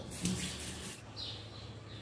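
A noisy scrape or rustle for about a second, then a bird's short falling chirp.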